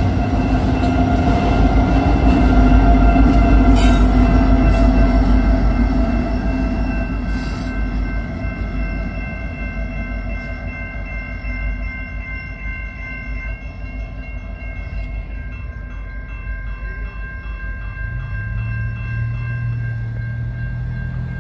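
The tail end of a freight train passing: the rear SD70ACe distributed-power diesel locomotive and the last autorack cars rumble by, loudest a few seconds in, then fade as the train moves off. A grade-crossing bell keeps ringing with steady high tones throughout, and a low hum comes in near the end.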